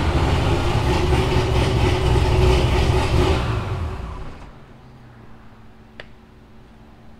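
A car engine running loudly with a deep rumble, which dies away about four seconds in. A faint click follows about six seconds in.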